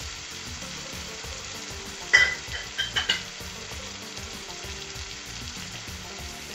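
Tomato masala frying in ghee in a kadhai, sizzling steadily with curd and dry spices just added on top. A sharp metallic clink comes about two seconds in, followed by a few lighter clinks.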